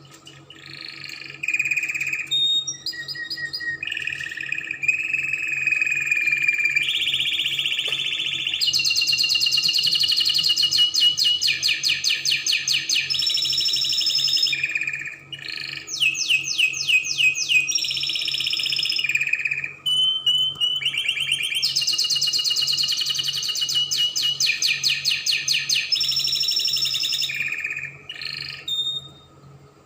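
Spanish Timbrado canary singing a long, unbroken song, switching every second or two between rapid trills and held whistled notes. The song stops shortly before the end.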